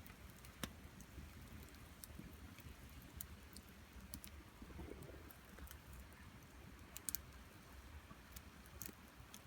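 Faint wood cooking fire crackling, with a few scattered sharp pops over a low steady rumble, as pots boil over it.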